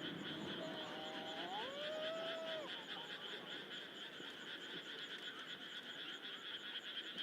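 Faint chorus of frogs croaking steadily in a fast, even pulse. A brief sliding, whistle-like tone about one to two seconds in.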